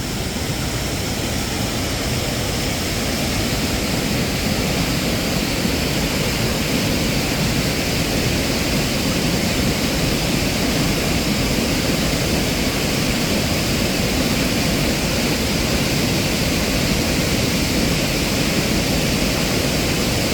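Steady rushing of water spilling over a small dam, an even noise without breaks that grows slightly louder a few seconds in.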